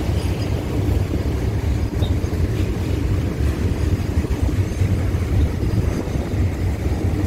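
Freight train of open goods wagons rolling across a steel truss railway bridge: a steady low rumble.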